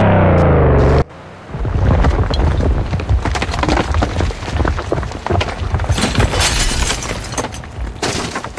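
Cartoon sound effects: a loud falling-pitch tone for about a second, then a landslide of rocks cracking and crumbling over a deep rumble.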